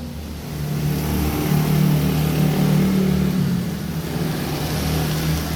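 An engine running steadily, swelling a little about a second and a half in, under a steady hiss of rain.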